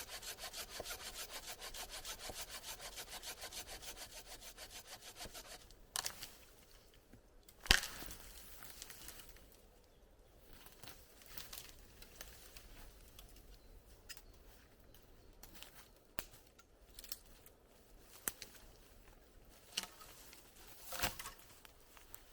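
Hand saw cutting through wood with quick, even strokes, about five a second, which stop about six seconds in. Two sharp wooden knocks follow, the second the loudest, then scattered light clicks and rubbing of wood being handled.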